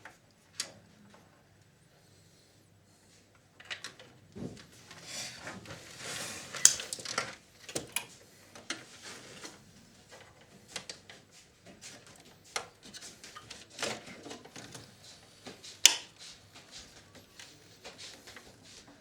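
Clicks, taps and scrapes of a video recorder's plastic and metal parts being handled while a circuit board is worked loose. There is a busier stretch of rustling and clatter about five to eight seconds in, and a sharp click near sixteen seconds.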